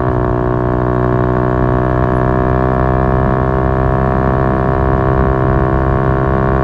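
Yamaha MT-125's single-cylinder four-stroke engine running through an Akrapovic exhaust, holding steady revs with an even, unchanging drone.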